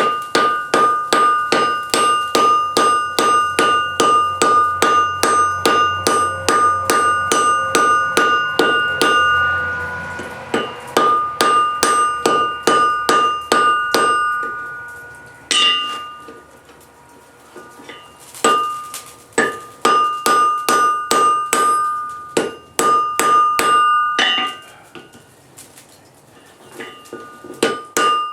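Blacksmith's hand hammer striking hot steel on an anvil in quick runs of about three blows a second, each blow leaving a clear metallic ring, with short pauses between runs.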